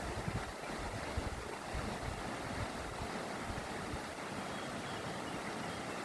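Mountain torrent rushing steadily, with a few faint bird chirps near the end.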